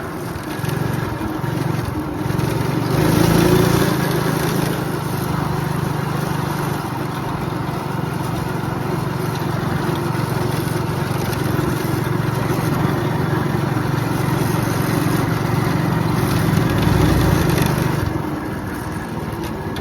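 Predator 212cc single-cylinder engine of a go-kart, fitted with a stage one kit, running loud and steady, swelling louder about three seconds in and again near the end.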